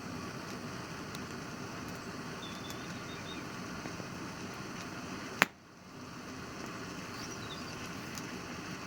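Campfire crackling: a steady hiss with scattered small snaps and one sharp, loud pop about five seconds in.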